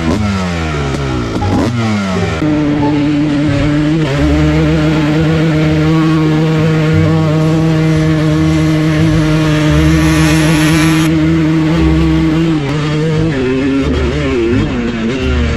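Dirt bike engine revving hard, climbing in pitch several times in quick succession, then held at a steady high pitch for about ten seconds. Near the end it rises and falls again.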